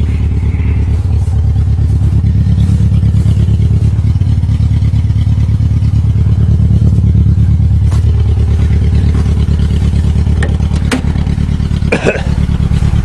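1994 Geo Tracker's four-cylinder engine running steadily just after a cold start, with a fast even pulse and a few sharp clicks near the end. The owner believes one cylinder has bad compression.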